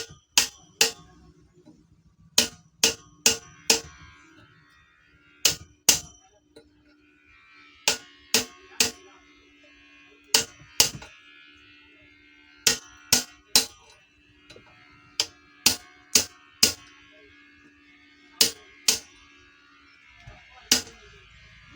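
Hammer blows on metal: sharp ringing strikes in quick groups of two to four, about half a second apart, with short pauses between groups, over a faint steady hum.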